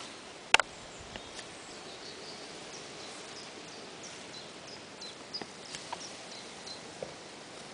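Small birds chirping in the background, a scatter of short high chirps, with one sharp click about half a second in and a few fainter ticks later.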